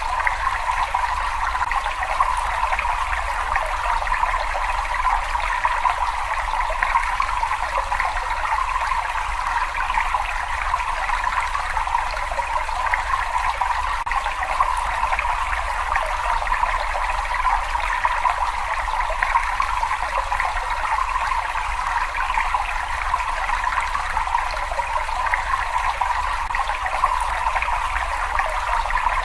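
Water running and trickling steadily in a cave, an even unbroken rush with a faint low rumble underneath.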